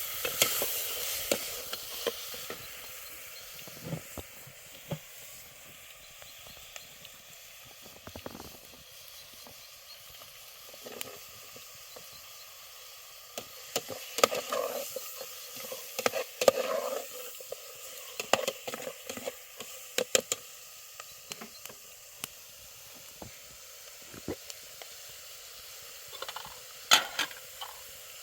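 A steady sizzling hiss with scattered clicks and knocks, which come thickest in the middle stretch and again near the end.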